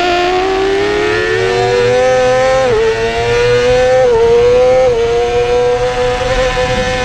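2017 Yamaha YZF-R6's 599 cc inline-four racing engine at high revs under full throttle. Its pitch climbs steadily, dips briefly and picks up again about three and four seconds in, then holds high and steady.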